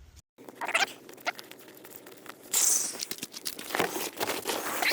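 Clicks, knocks and rustling of hands unlatching and working the removable rear glass out of a pickup's midgate, with a brief hissing scrape about two and a half seconds in.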